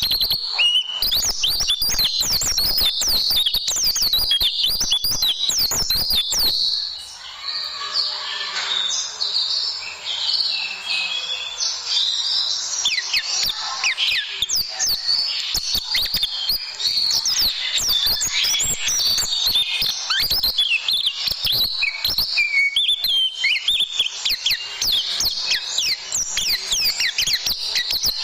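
White-eye (pleci) song: a fast, dense run of high twittering chirps and trills with hardly a break. The song is mixed with rapid sharp clicking for about the first six seconds, then the recording changes abruptly and the twittering goes on alone.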